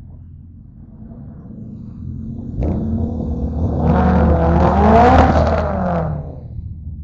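A car engine idles low, then about two and a half seconds in is revved hard as the car pulls away past, its pitch climbing and dropping through the gears. It is loudest about five seconds in and dies away near the end.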